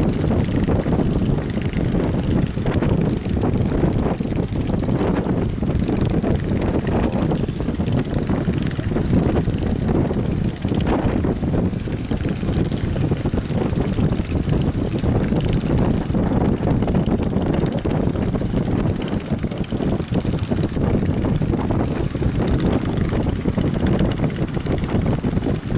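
Strong wind buffeting the microphone: a loud, steady low rumble that flutters in level throughout.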